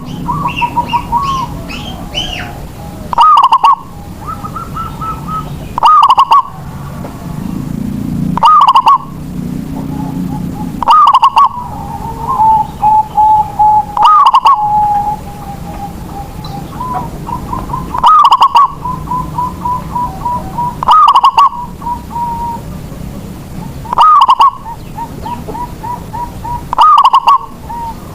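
Zebra dove (perkutut) singing its cooing song over and over, a phrase about every three seconds: each opens with a loud coo that overloads the recording, then runs into a quick string of short, even coos. Faint chirps of other small birds near the start.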